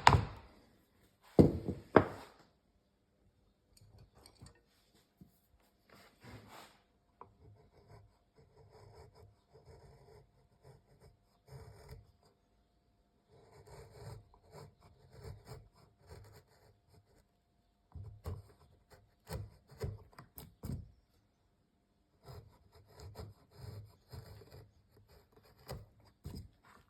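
Two sharp knocks on wood about half a second apart near the start, then quiet, irregular runs of scraping strokes as a wooden piece is rubbed down by hand with an abrasive.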